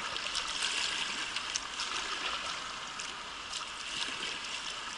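Fast-flowing river water, a steady rushing hiss with small splashes and drips scattered through it.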